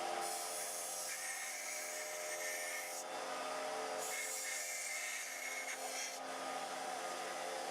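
Sealey belt sander running steadily while a steel blade is ground on the belt. The rasping grind comes and goes with each pass, in strokes of two to three seconds with short breaks between.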